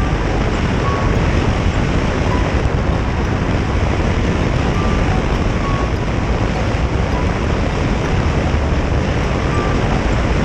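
Steady rush of wind over the microphone, with the engine and road noise of a motorcycle riding along at a constant pace.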